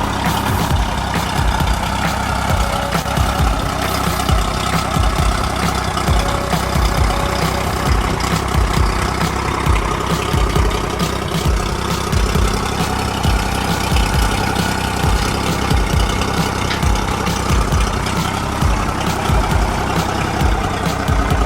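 Mercury 90 hp outboard motor running steadily, with irregular low thumps over it.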